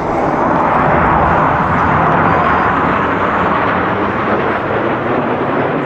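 Formation of BAE Hawk jet trainers passing overhead, a loud jet roar that swells in the first second or two and then eases slightly.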